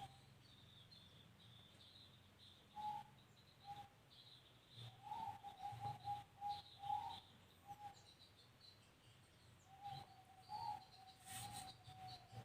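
Faint bird calling: runs of quick, evenly repeated short notes, with a couple of single notes between the runs.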